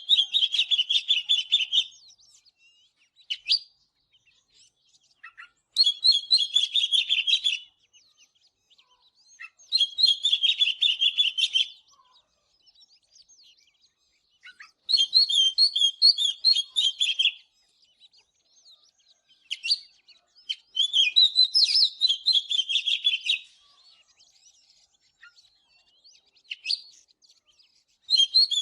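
Oriental magpie-robin singing: bursts of quick, varied whistles and chirps, each phrase about two seconds long, repeated about six times with pauses of a few seconds between them.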